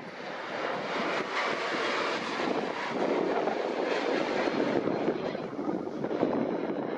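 Boeing 767 freighter's jet engines, heard as a steady rushing noise that swells slightly in the first few seconds, with some wind on the microphone.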